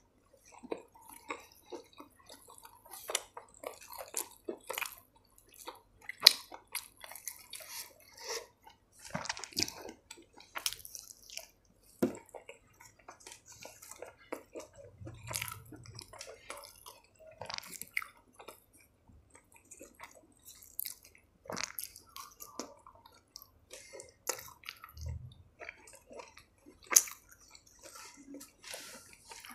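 A person chewing a mouthful of paratha with the lips closed: wet mouth sounds broken by many irregular sharp clicks.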